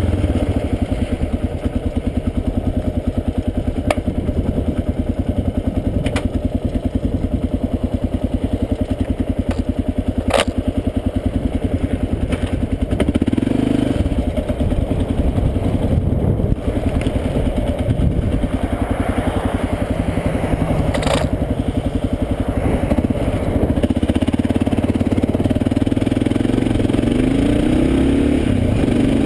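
Kawasaki KLR650's single-cylinder engine idling with a steady, even thump, with a few sharp clicks; near the end the revs rise in short climbs as the bike pulls away.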